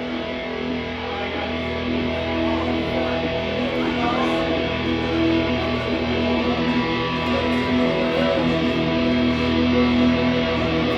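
Live heavy-metal band's electric guitars ringing out in long held notes, slowly growing louder.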